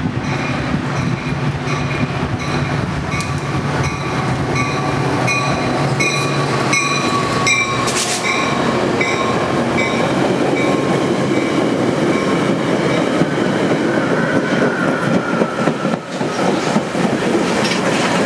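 A train passing at speed, with wheels clattering over the rails. A diesel locomotive's engine hum is heard in the first half, along with a high ringing tone repeating about twice a second. The rumble grows heavier later, with a faint falling squeal near the end.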